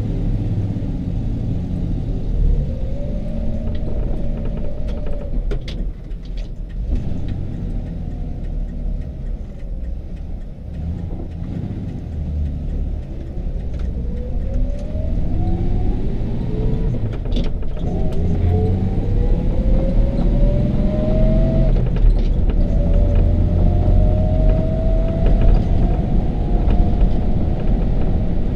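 Toyota FJ40 Land Cruiser's inline-six engine and drivetrain heard from inside the cab on the move: a low rumble with a whine that rises in pitch as it gathers speed, drops once near the end and climbs again, and occasional short rattles.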